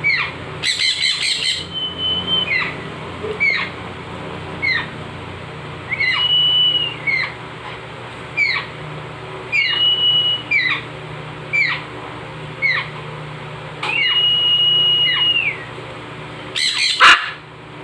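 Baby macaw begging to be fed during syringe hand-feeding: short falling squeaks about once a second, a few drawn out into a held high whistle. A harsh noisy burst comes near the start and another near the end.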